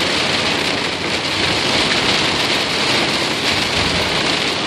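Steady rushing hiss of water heard from inside a car moving along a flooded road, from rain and water thrown up around the car.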